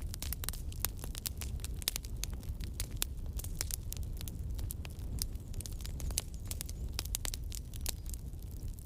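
Wood campfire burning, with frequent sharp crackles and pops at irregular intervals over a steady low rumble.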